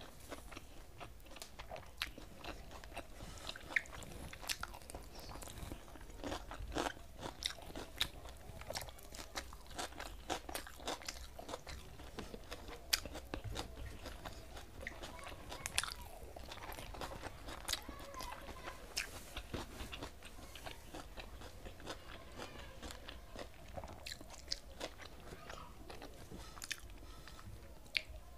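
A person chewing and crunching food eaten by hand, with many sharp, irregular mouth clicks and smacks.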